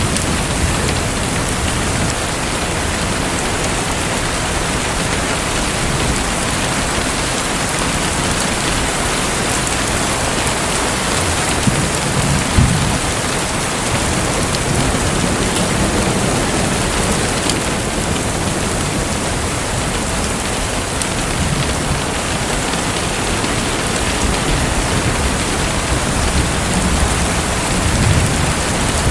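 Steady rushing, splashing water, an even rain-like hiss with no let-up.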